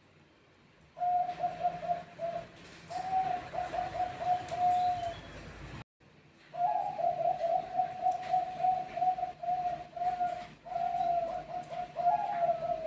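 Thai-bred zebra doves (perkutut bangkok) cooing, with several birds answering one another. Each phrase is a quick string of short, even coo notes. The calling starts about a second in, cuts off abruptly just before the middle, then resumes with a longer, overlapping run.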